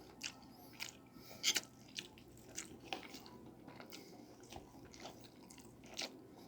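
A person chewing food close to the microphone: wet mouth clicks and smacks at an uneven pace, with a louder pair about a second and a half in.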